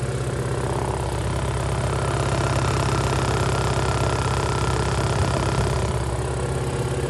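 Mitsubishi Carisma's 1.8 16-valve four-cylinder petrol engine (4G93) idling steadily.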